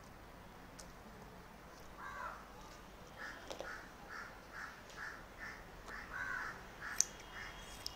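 Faint bird calls: one call, then a run of about eight short repeated notes, two to three a second, ending in a longer call. Near the end, a sharp click or two from scissors snipping hair.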